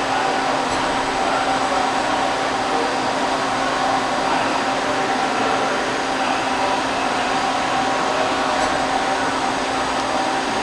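Hurco TMX-10MYi CNC turning center running a roughing pass on the lathe: a steady machine whir with a few constant tones in it.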